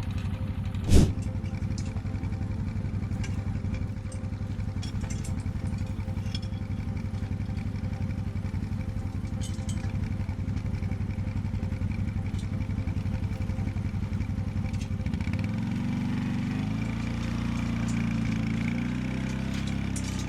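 Small engine of an ATV running steadily, with one sharp knock about a second in; near the end its pitch shifts up and down in steps.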